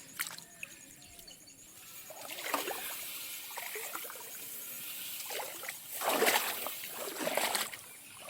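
Shallow water sloshing and splashing, louder for a couple of seconds near the end.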